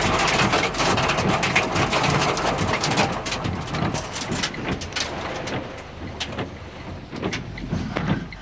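Wind and heavy rain beating on a car, with many sharp taps of drops striking the body and glass. The rushing wind noise is loudest at first and eases after about four seconds.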